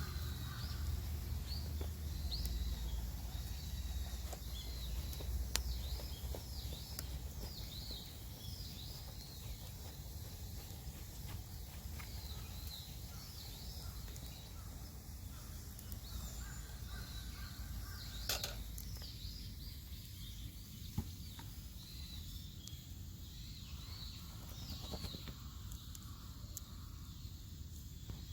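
Outdoor ambience of wild birds chirping over and over, with a crow cawing at the start and again about two-thirds through, over a steady low rumble and a few sharp clicks.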